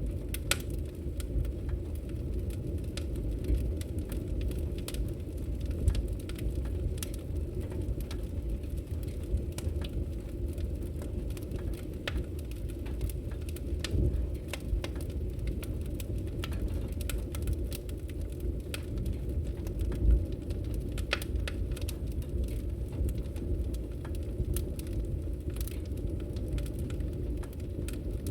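Fire in a fireplace burning with a steady low rumble and scattered sharp crackles and pops, two of them louder than the rest.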